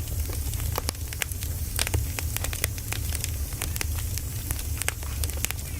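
Firewood burning, with frequent irregular sharp crackles and pops over a steady low rumble and a soft hiss.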